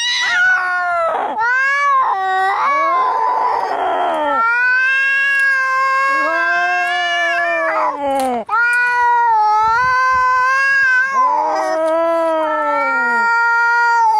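Cats yowling in a fight, one long wavering caterwaul after another, rising and falling in pitch. A short rasping burst breaks in about three seconds in.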